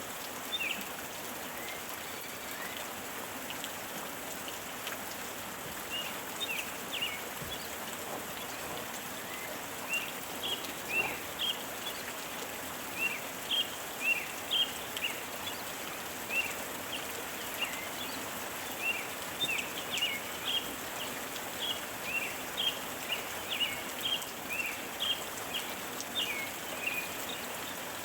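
Steady rain hiss with birds chirping in short, high, repeated calls, sparse at first and growing busy from about a third of the way in.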